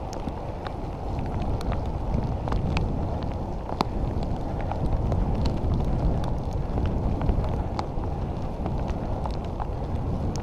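Wind rushing over the microphone and wet road noise while riding a bicycle in the rain, with scattered light ticks throughout.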